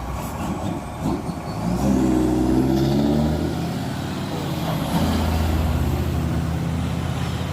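Truck tractor's diesel engine accelerating. It gets louder and climbs in pitch about two seconds in, eases off briefly, then pulls hard and steady again from about five seconds in.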